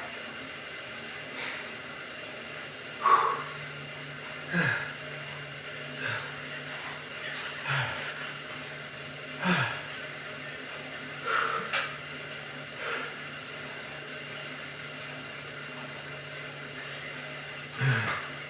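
Steady hum of a stationary exercise bike being pedalled, with a short, falling-pitched exhale about every second and a half, in rhythm with repeated weight-lifting reps.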